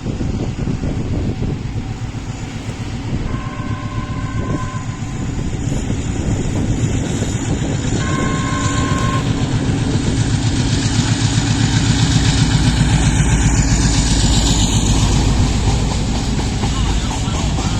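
Train running over the level crossing, with a steady loud rumble and wheel clatter that grow louder in the second half. It sounds its horn twice, two short two-note blasts about three and eight seconds in.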